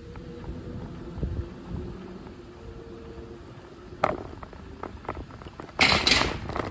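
Bicycle being ridden along a path: steady low rolling rumble, a sharp click about four seconds in, and a brief loud rush of noise near the end.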